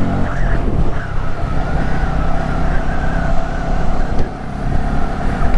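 Honda Grom's small single-cylinder four-stroke engine running steadily while riding, with a steady whine over the engine note.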